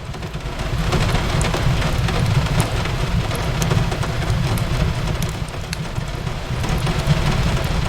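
Steady rain on a window mixed with a fireplace crackling: scattered sharp pops over a continuous hiss and a steady low rumble.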